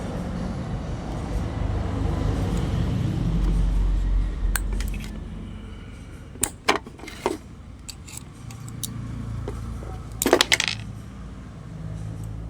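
A low rumble with a steady hum for the first few seconds, fading out, then several sharp metallic clinks of small metal parts or tools being handled. The loudest clinks come in a quick cluster about ten seconds in.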